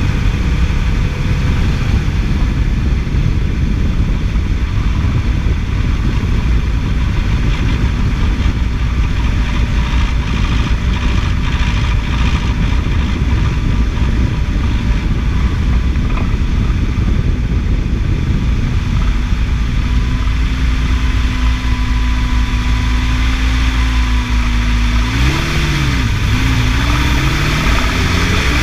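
2006 Toyota's engine running steadily, then revved up and down a few times near the end. The owner is trying to find where an odd noise in it comes from.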